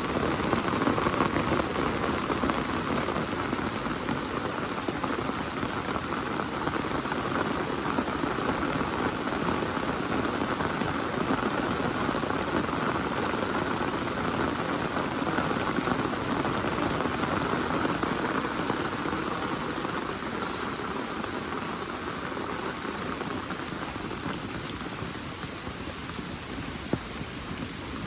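Heavy rain falling steadily, a dense even hiss of drops hitting surfaces, easing slightly toward the end. There is one sharp tick near the end.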